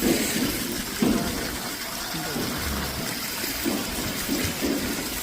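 Steady rush of running water from the low stream flow at a rocky waterfall.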